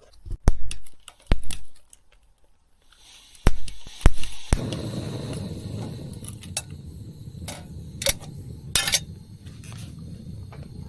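Metal camp cookware clinking and knocking as it is handled, several sharp knocks in a row; from about four and a half seconds in a steady low rushing sound starts and carries on under occasional clinks.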